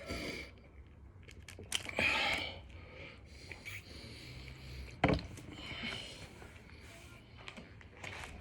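Heavy breathing of a man exercising hard: loud exhales a few seconds apart. A single sharp thump comes about five seconds in.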